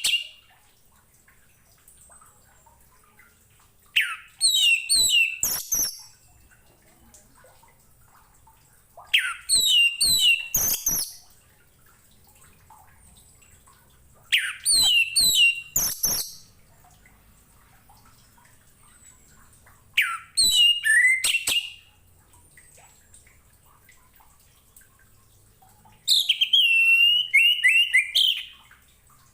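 Orange-headed thrush (anis merah) singing: five short phrases of rapid, gliding whistled notes, each about two seconds long, with pauses of a few seconds between them.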